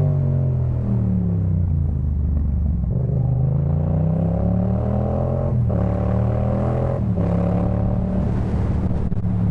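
A 2018 Yamaha MT-07's 689 cc parallel-twin engine running through a Jeskap K4 full aftermarket exhaust. The note drops off as the bike slows, then climbs under acceleration, broken by two quick upshifts a little over halfway through. It then settles into a steady cruise near the end.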